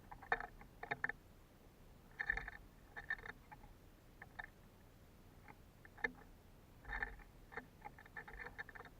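Birds pecking and scrabbling at suet in wire-cage feeders: irregular runs of quick, faint taps and scrapes.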